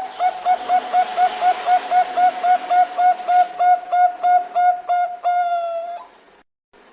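Zebra dove (Thai-bred perkutut bangkok) cooing: a rapid even run of about twenty short notes, about four a second, ending in one longer note that falls slightly about five seconds in.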